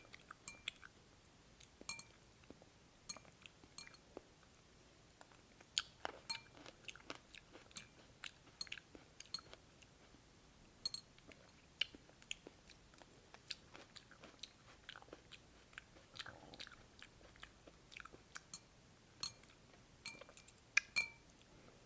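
A person eating cold cucumber soup close to the microphone: irregular crunching and chewing clicks, some a little louder than others.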